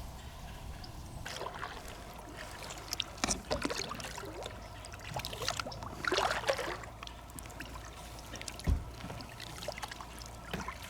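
Water trickling and splashing in small irregular bursts, as from a kayak paddle dipping and dripping, with one dull thump late on.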